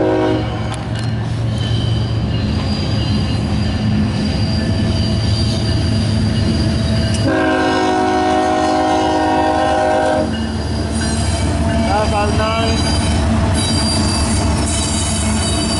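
CSX freight diesel locomotives approaching and passing at a grade crossing, engines rumbling steadily. A single long horn blast sounds about seven seconds in and lasts about three seconds. High wheel squeal comes in over the last few seconds.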